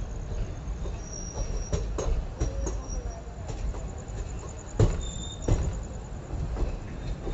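Passenger train coaches running on the track: a steady low rumble with irregular knocks as the wheels cross rail joints, two heavier knocks near the middle, and short high-pitched wheel squeals on and off.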